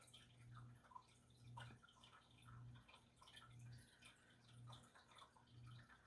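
Near silence: faint room tone with a low hum that swells about once a second, and a few faint ticks.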